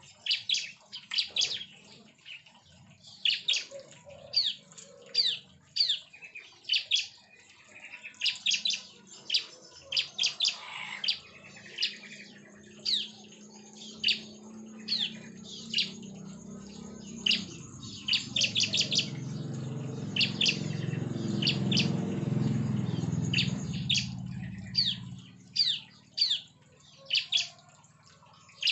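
Bar-winged prinias (ciblek) chirping: quick runs of short, sharp, high chirps, often several a second. A low hum swells up in the middle and dies away about two-thirds of the way through.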